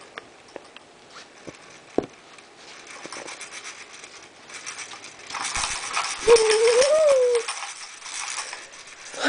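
A baby's toy rattling and clattering as she kicks it with her feet: scattered light knocks at first, then a busier, louder rattle in the second half. Partway through the loud stretch comes one short rising-then-falling vocal sound from the baby.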